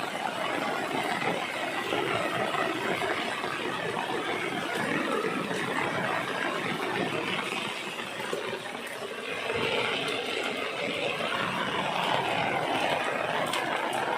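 Heavy rain falling steadily as a dense hiss, easing slightly for a second or two about eight seconds in.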